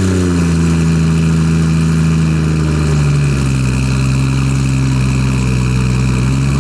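Turbocharged 2JZ inline-six of a Formula Drift car running at a fast idle just after starting. Its pitch steps down to a lower, steady idle about three seconds in.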